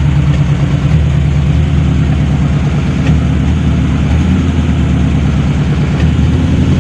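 Old car's engine idling steadily while it warms up, heard from inside the cabin.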